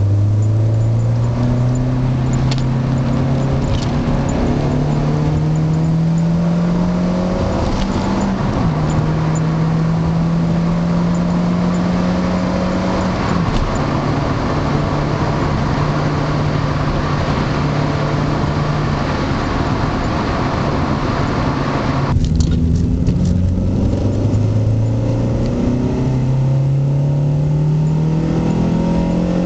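Renault Clio 172 Cup's 2.0-litre four-cylinder engine through a Yozza Stealth exhaust, heard from inside the cabin while the car accelerates through the gears. The engine note rises and drops at each gear change, about 8 and 13 seconds in, holds steady for a while, then climbs again after another change about 22 seconds in.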